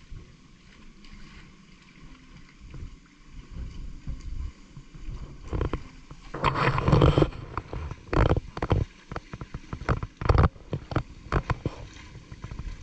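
Water splashing in a shallow ditch from wading and working a fishing net: quiet sloshing at first, a longer burst of splashing about halfway through, then a run of short, sharp splashes.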